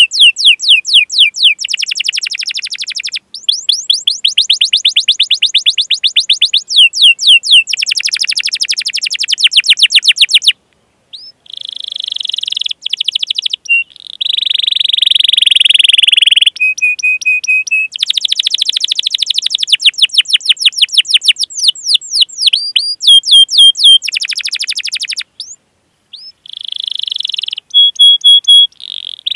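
Domestic canary singing a long song: rapid runs of sharp, downward-sweeping 'cuit cuit' chirps alternating with steady, buzzy rolling trills. There are brief pauses about a third of the way in and again near the end.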